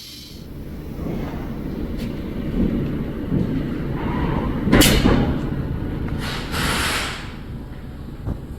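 Garage tyre-changing machine working a tyre onto its wheel, running with a low mechanical rumble. A loud sharp burst comes about five seconds in, and a shorter hissing burst follows shortly after.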